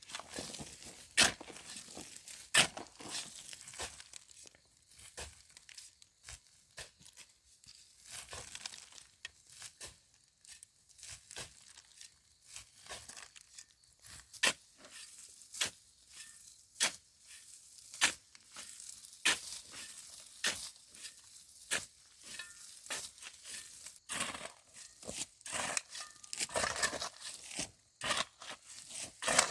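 Irregular sharp snaps and cracks, roughly one every second or two, with tearing and rustling in between, as of plant material being broken and torn by hand.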